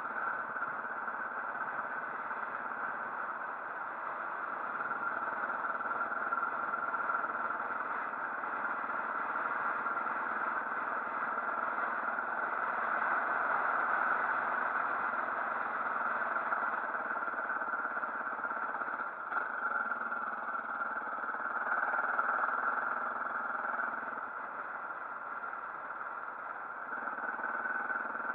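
Motorcycle on the move: a steady mix of engine and wind noise that swells and eases slowly, with no sharp events.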